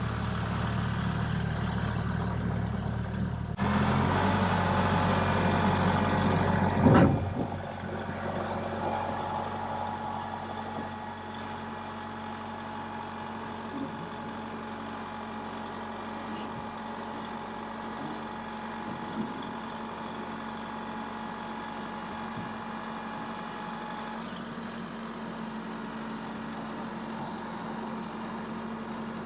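A motor vehicle's engine running steadily. It gets louder about three and a half seconds in, with a sharp knock about seven seconds in, then settles back to a steady, quieter run.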